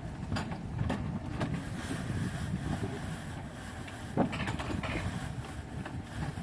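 Mountain coaster cart rumbling along its track, with scattered sharp clacks, the loudest about four seconds in.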